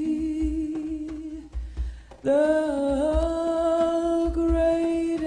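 A female singer holds two long wordless notes, the second sliding up slightly as it starts, over a soft, steady hand-drum beat of about two strokes a second.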